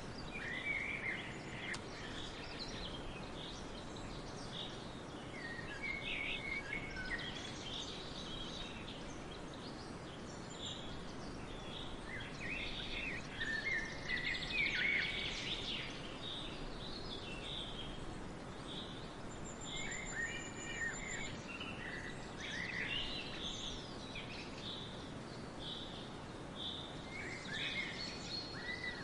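Several songbirds chirping and singing in short repeated phrases over a steady background hiss, with a brief high trill about twenty seconds in.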